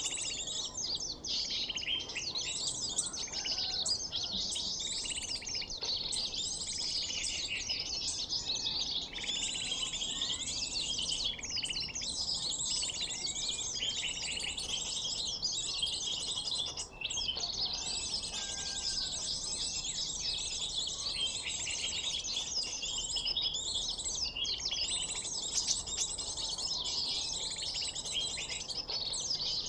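A bird-luring mp3 recording of many small birds, meant to attract sunbirds, playing as a dense, unbroken chorus of high chirps and twitters.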